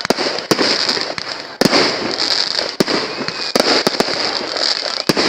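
Fireworks display: sharp bangs of shells bursting at irregular intervals, about seven in five seconds, over a continuous crackling hiss.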